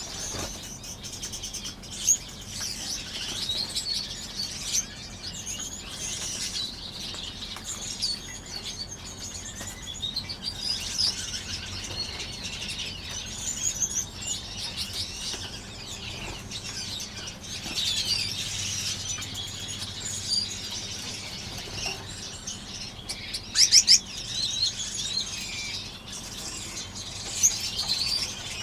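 A flock of small finches chirping and calling continuously, with wing flutters among the calls. A louder cluster of calls comes near the end.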